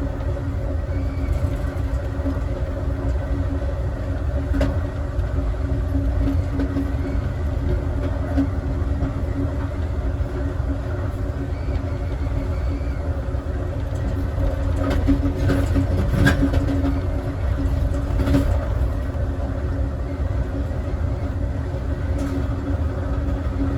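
Passenger train rolling along at speed, heard from inside its last car: a steady low rumble with a constant hum, and a few sharp clicks and knocks from the wheels and car body about fifteen to eighteen seconds in.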